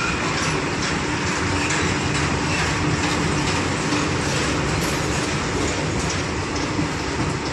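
Goods train's wagons rolling through the station, wheels clicking over the rail joints under a steady rumble.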